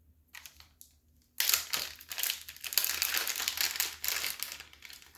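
A few light clicks, then about a second and a half in a dense crinkling and crackling of packaging being handled and opened, as a tool or supply is taken out.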